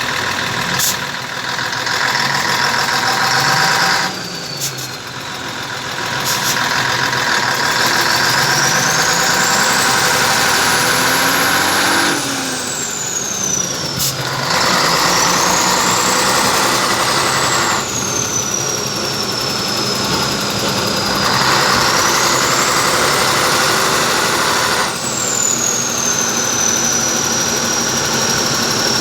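Scania 113 truck's turbocharged six-cylinder diesel revved several times, the turbocharger whistling in a high whine that climbs as the revs rise and falls away as they drop, about four times. Near the end it settles into a steady whistle.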